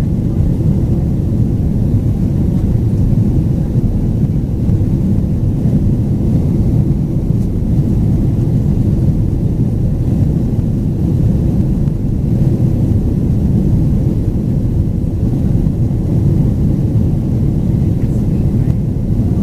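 Steady low rumble of a Boeing 767-400ER's turbofan engines and rushing air, heard inside the cabin, unchanging throughout.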